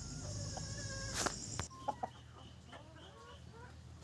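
Country chickens clucking faintly in short calls, with a single sharp click about a second in.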